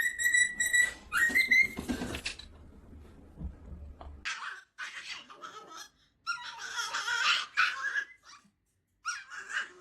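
Pet animal cries: a high, steady squealing call that rises at its end in the first two seconds, then three harsher screeching bursts, each broken off abruptly.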